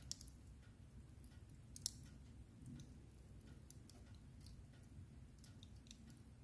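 Wood fire crackling in a fireplace: irregular sharp pops and snaps over a low steady rumble, with one louder pop about two seconds in.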